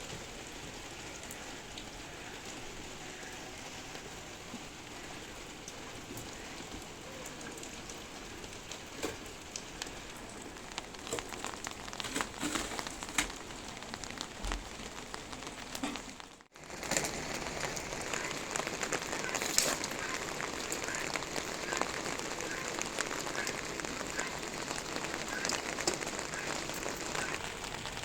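Steady rain falling and pattering on surfaces, with scattered louder drops. It cuts out for a moment about sixteen seconds in and comes back louder.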